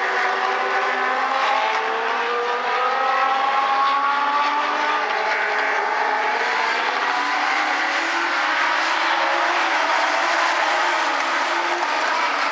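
Several Legends race cars' Yamaha motorcycle engines running together on the track, their pitches slowly rising and falling as the cars circle.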